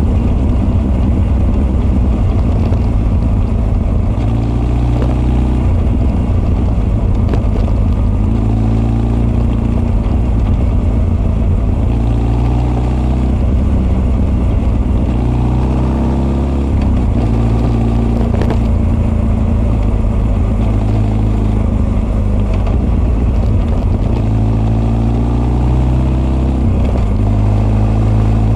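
Honda CB1300 SF inline-four running through Keihin FCR41 carburettors and an r's gear Wyvern full exhaust, with raw intake sound and exhaust note. The engine revs rise and fall several times as the bike accelerates and slows.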